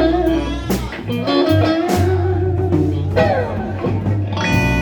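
Live blues band playing an instrumental fill between vocal lines: electric guitar lead over a steady bass and drums, with a few sharp drum hits.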